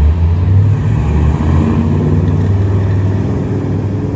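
A motor vehicle's engine running close by: a loud, steady low rumble that eases off slightly near the end.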